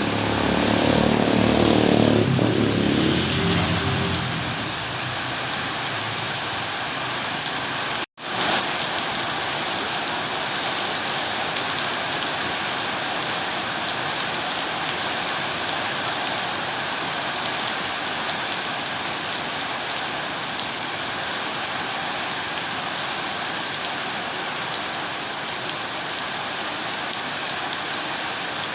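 Steady rain falling, an even hiss. A louder low pitched sound swells and fades over the first four seconds, and about eight seconds in the sound cuts out for a moment and returns.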